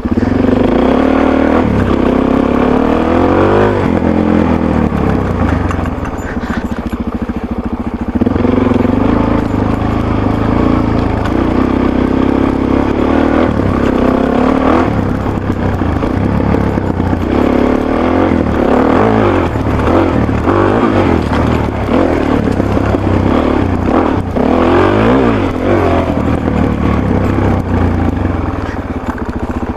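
Motorcycle engine running through a Yoshimura RS3 muffler with its sound-reducing insert fitted, revs rising and falling again and again as it is ridden.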